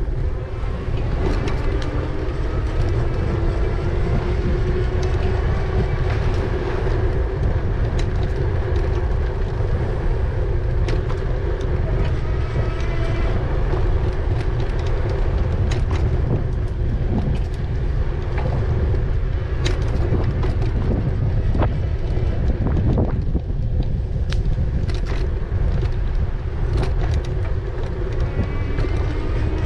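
Riding noise from an e-bike: wind rumbling on the microphone, a steady whine from the bike's motor that rises slightly in pitch in the first few seconds, and scattered sharp clicks and knocks from the bike as it rolls.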